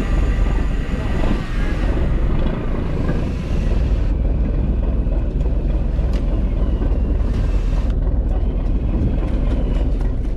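Fishing boat's engine running steadily, a low drone under the rush of wind and water, with a few light clicks in the second half.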